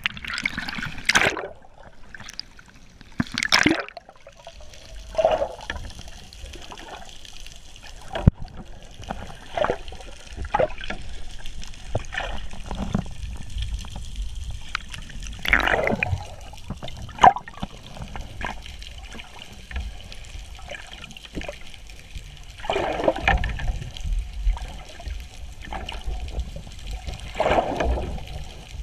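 Sea water gurgling and sloshing around an underwater camera, with irregular louder surges of bubbling every few seconds.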